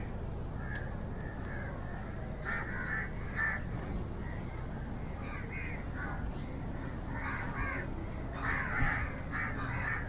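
Birds calling in the trees, short repeated calls coming in clusters that are loudest near the end, over a steady low outdoor rumble.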